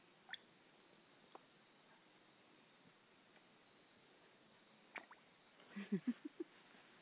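Steady high insect chorus of crickets. About six seconds in come a few brief, soft, low sounds close by.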